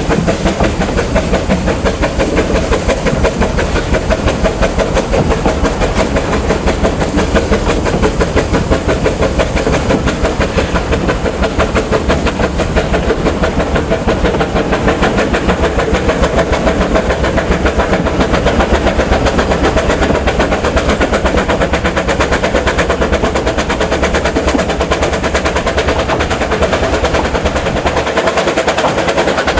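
Narrow-gauge steam train hauled by 2-6-2T tank locomotive No. 8 on the move: a fast, steady rhythmic beating over a constant rumble.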